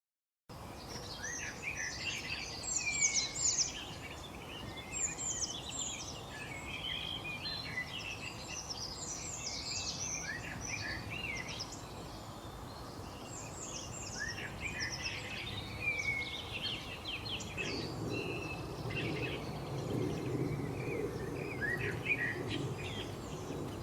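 Several small songbirds chirping and twittering at once: a dense run of short, quick notes overlapping throughout. About three-quarters of the way through, a low rumble of background noise joins in under the birdsong.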